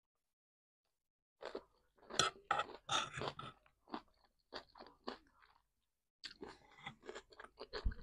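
A person chewing a mouthful of fresh vegetable salad in a creamy dressing: irregular wet crunches and mouth clicks, starting about a second and a half in, pausing for about a second past the middle, then going on.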